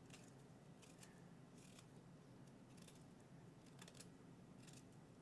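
Faint scraping of a tablespoon's edge peeling the skin off a ginger root: a handful of short, irregular scrapes.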